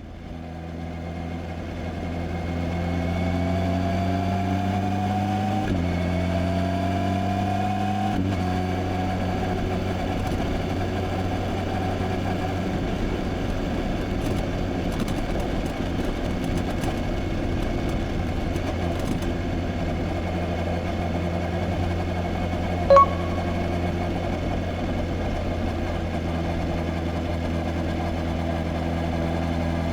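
Kawasaki Z H2's supercharged inline-four engine pulling up through two gears, the pitch rising and dropping at each shift, then running at a steady cruise. A brief beep sounds about two-thirds of the way through.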